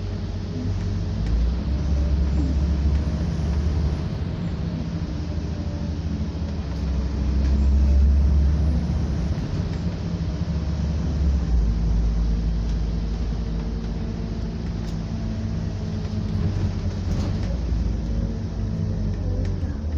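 Scania double-decker bus running under way with a steady low engine rumble that swells several times as it pulls harder.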